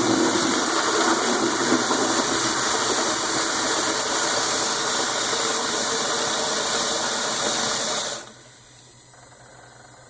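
Water rushing out of the quarter-turn flush valve of a plumbing sediment filter into a bucket, a loud steady gush that flushes the sediment out; the valve is open only a little way. The flow stops about eight seconds in, leaving a faint hum.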